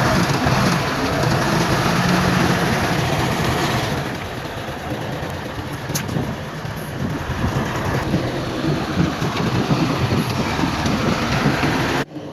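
Heavy earthmoving machinery at work: diesel engine running under a dense clattering rumble. The sound changes about four seconds in and drops away abruptly near the end.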